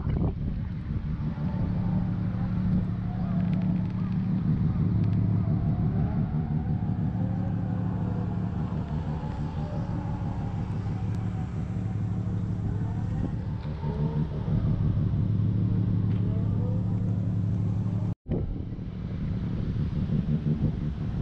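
Nissan Skyline R34 25GT Turbo's RB25DET NEO turbocharged straight-six idling steadily.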